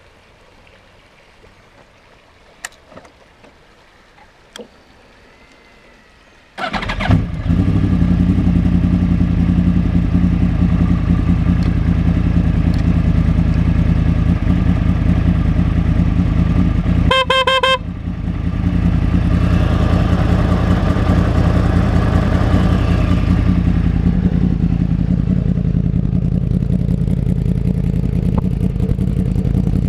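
A few faint clicks, then a 2011 Yamaha YZF-R1's crossplane inline-four, breathing through an Akrapovič full exhaust system, fires up suddenly and settles into a loud, steady idle. A brief beeping tone cuts in about two-thirds of the way through, then the idle carries on.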